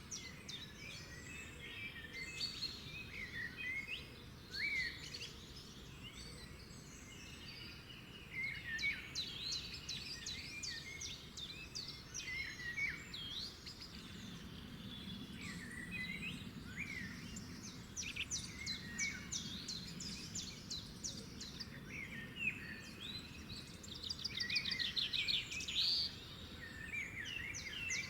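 Several songbirds singing and chirping at once, with overlapping whistled notes and rapid trills, over a faint steady background hiss.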